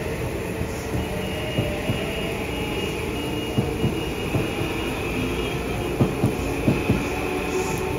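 Metro-North M8 electric train rolling past close by: a steady rumble with a thin high whine in the first half, then a run of sharp, irregular wheel clicks over the rail joints in the second half.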